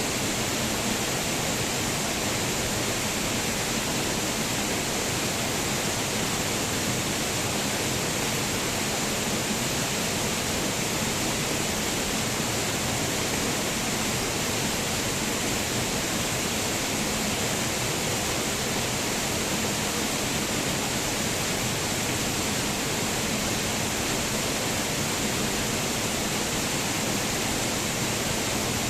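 Waterfall: water falling and splashing in a steady, unbroken rush, with a strong hiss.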